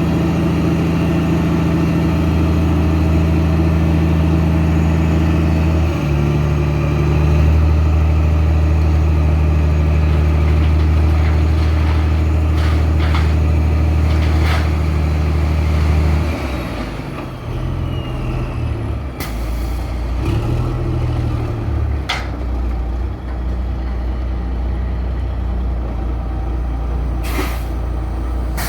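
Dump truck's diesel engine running steadily at raised speed, stepping up about six seconds in, then dropping to a lower, uneven run partway through. Several short air hisses follow.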